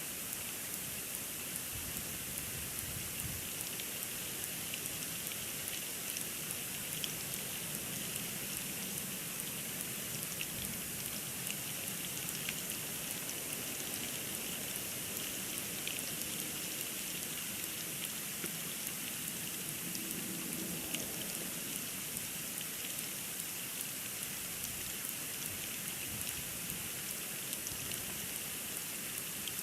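Steady hiss with fine, constant ticking of snowstorm precipitation hitting the outdoor nest camera and its microphone.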